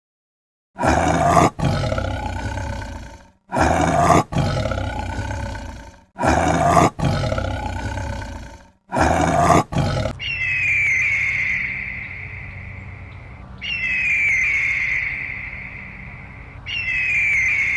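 A big cat roaring four times in a row, each roar a couple of seconds long. About ten seconds in, it switches to a bird's shrill call that falls in pitch, repeated three times.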